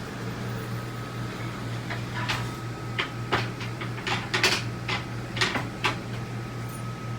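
Motorhome cabinet doors being opened and shut: a run of about ten sharp clicks and knocks over a few seconds, over a steady low hum.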